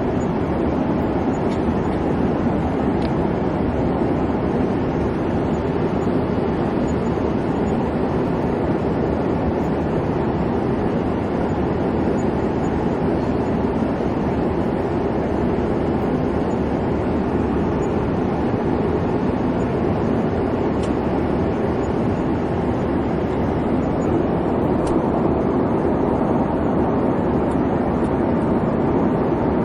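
Airliner cabin noise in flight: a steady, even rumble of engine and airflow.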